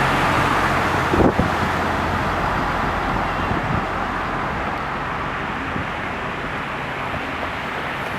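Steady rushing noise of traffic on a rain-flooded road, with a single knock about a second in; the noise eases a little toward the end.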